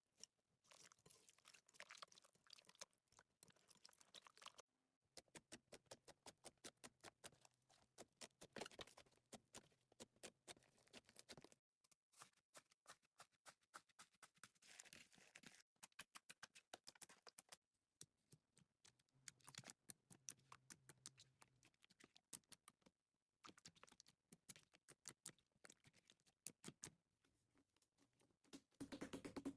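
Slime being squeezed and poked by hand: faint, rapid trains of small clicks and crackles, in several short stretches that cut off abruptly.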